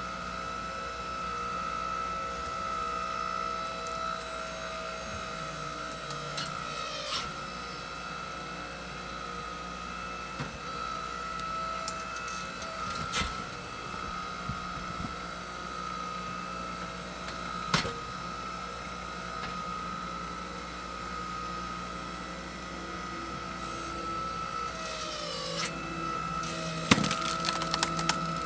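Engine-driven hydraulic log splitter running with a steady whine. Twice the pitch sags and then recovers as the ram comes under load. Sharp cracks of wood splitting come through, with a quick cluster of them near the end.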